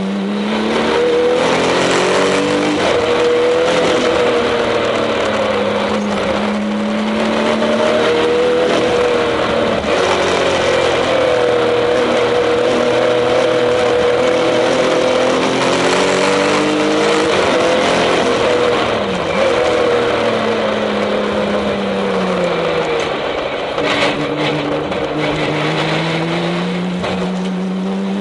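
Tuned Porsche 996 Turbo's twin-turbocharged flat-six heard from inside the cabin under hard acceleration at high revs. The engine note rises and falls with gear changes and lifts, drops about two-thirds of the way through, then climbs steadily again near the end.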